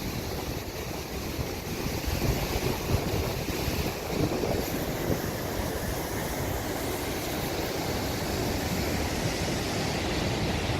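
Steady roar of a flood-swollen river rushing through a whitewater kayak course, with high water pouring over and around the rocks.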